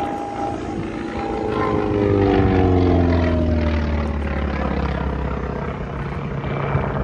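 Piston-engined propeller aircraft taxiing past, its engine note gliding down in pitch over a few seconds over a steady low engine drone.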